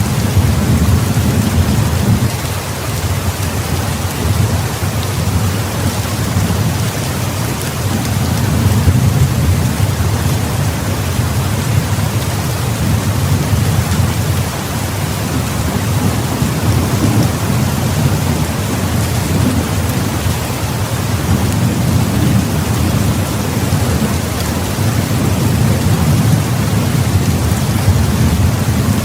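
Heavy rain falling steadily, with a low rolling rumble of thunder that swells and fades several times.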